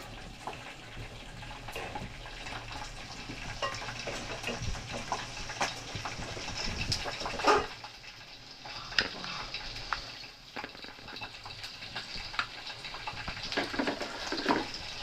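Curry chicken sizzling in a pan, with the scrape and clink of a spoon stirring it. A sharp knock comes about seven and a half seconds in, after which the sizzle eases for a moment and then builds back up.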